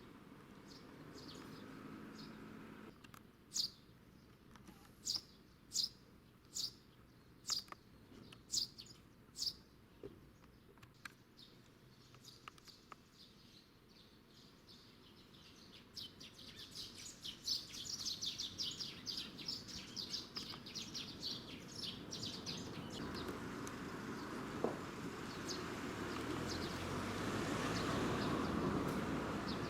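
Birds chirping outdoors: a string of single sharp chirps about one a second, then a burst of rapid twittering. Near the end a vehicle approaches and passes, rising to the loudest sound.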